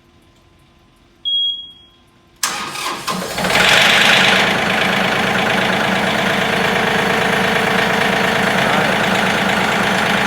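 A short beep, then a tractor engine cranking on its jump-start charger and catching almost at once, settling into steady running. The battery had been dead and took only a brief charge to start it.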